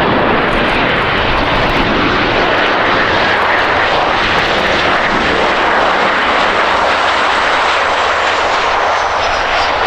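Jet airliner's engines: a loud, steady noise, with a faint high whine falling in pitch near the end.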